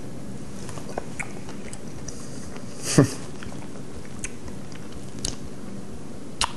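A man chewing a spoonful of grilled pineapple with rum sauce and ice cream, with a few faint clicks and one louder short sound about three seconds in.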